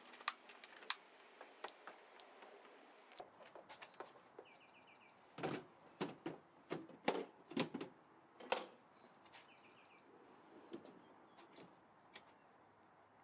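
A bird repeating the same short, fast chirping phrase three times over quiet background, with a scatter of sharp knocks and clicks in the middle as a portable compressor fridge is handled and set into a truck's back-seat floor.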